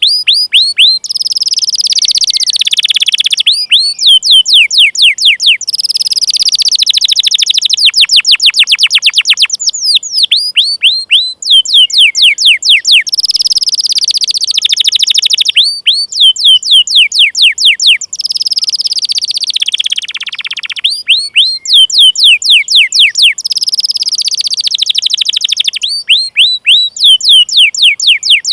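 Domestic canary singing: runs of quick falling 'cuit cuit' chirps, several a second, alternating with rolled trills, repeated over and over.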